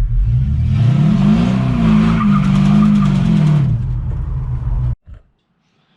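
Chevy C10's swapped 5.3 LS V8 revving up and held high for a burnout, with the rear tires spinning and squealing. The revs drop back near the end, and the sound cuts off abruptly about five seconds in.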